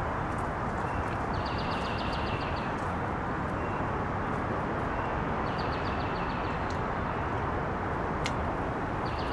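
Steady rushing background noise. A small bird sings a rapid high trill of about a second twice, and starts a third near the end. There is one sharp click a little past the eight-second mark.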